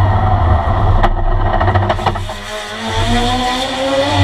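Classic Porsche 911's air-cooled flat-six engine, heard from inside the cockpit. Revs fall at first, there is a brief rattle of clicks about a second in, and the revs climb steadily again near the end.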